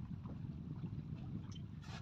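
Small boat on the sea: a steady low rush of water and wind against the hull and microphone, with a couple of light splashes or knocks near the end.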